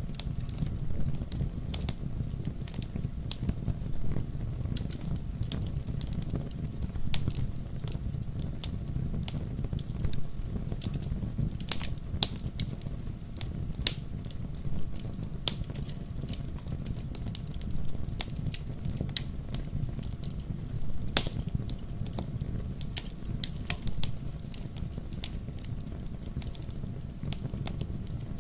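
Wood fire burning with a steady low rumble and irregular sharp crackles and pops, a few louder snaps standing out.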